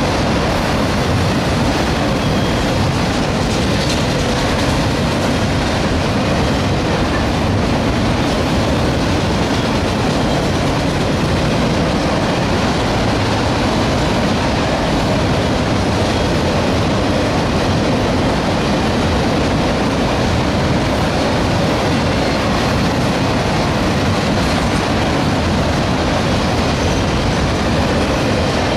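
Autorack cars of a freight train rolling past at steady speed: loud, steady noise of steel wheels running on the rails.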